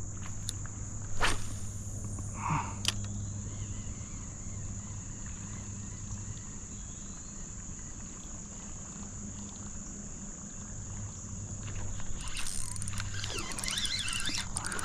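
Steady high-pitched insect chorus over water moving and lapping, with a couple of sharp knocks or splashes in the first three seconds and louder splashing near the end.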